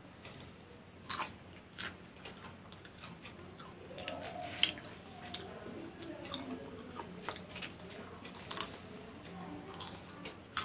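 Popcorn being bitten and chewed, eaten straight from a pile with the mouth: soft chewing with sharp crunches now and then, one louder crunch about halfway through.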